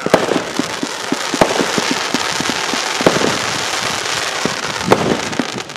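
Fireworks going off: a dense run of crackling pops with several sharper bangs among them.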